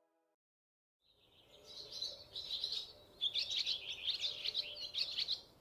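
Small birds chirping and twittering in quick, overlapping high calls, starting about a second in after a brief silence.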